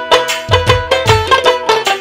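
Instrumental passage of a Bangla Baul folk song: a plucked-string melody over a steady, driving drum beat with no singing.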